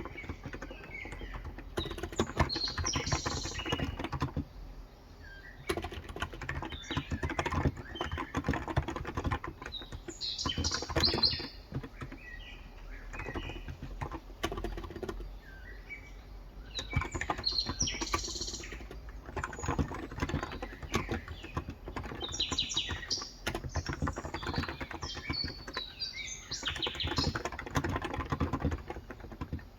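Typing in bursts on a Cox Endeavour tenkeyless electro-capacitive keyboard with 35 g switches: rapid runs of key clicks broken by short pauses. Birds chirp in the background throughout.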